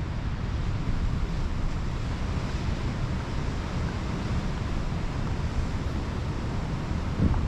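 Pacific Ocean surf washing steadily on the beach, with wind buffeting the microphone as a low rumble that gusts harder just before the end.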